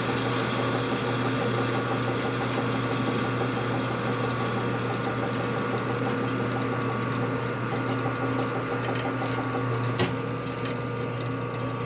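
Metal lathe running steadily while facing the end of a hot-rolled steel bar. A sharp click comes about ten seconds in, after which it runs a little quieter.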